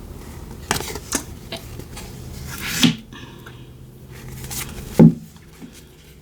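Tarot cards being handled on a table: a handful of sharp taps and flicks, the loudest about five seconds in.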